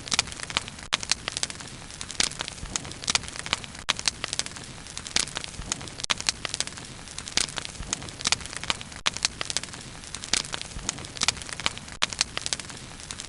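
Wood fire crackling steadily: a soft hiss with frequent sharp, irregular pops and snaps.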